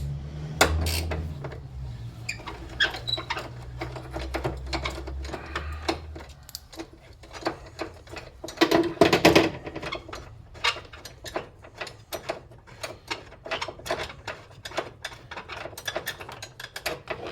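Hand tools clicking and knocking on the metal fittings of a car battery as it is worked loose for removal, a long run of small clicks with a louder clatter about nine seconds in. A low hum underneath stops about six seconds in.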